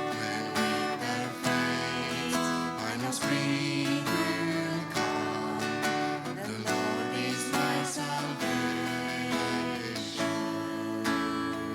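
Music led by a strummed acoustic guitar, with chords held and strummed steadily.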